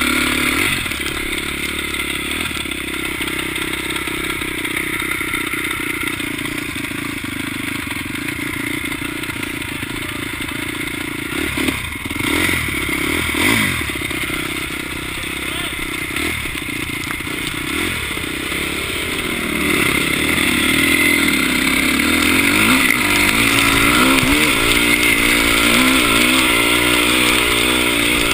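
Dirt bike engine running under way, its revs rising and falling with the throttle. There are quick changes in the note about twelve and thirteen seconds in, and it climbs higher and louder over the last third.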